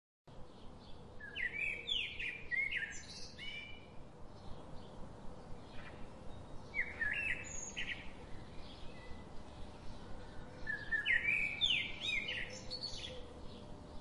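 Birds singing: three bursts of quick chirping notes, with fainter chirps between them.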